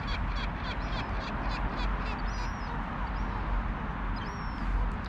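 Gull calling in a fast run of short repeated notes, about five a second, that tails off about two seconds in, with a few high chirps later over a steady background noise.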